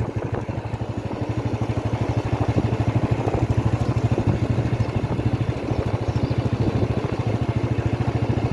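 Motorcycle engine running steadily under way, heard from on the bike, with a fast, even exhaust pulse.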